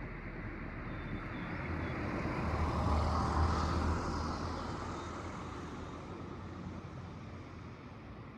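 A passing engine, likely a car or a plane: it grows louder to a peak about three seconds in, then fades away, with a low hum under it.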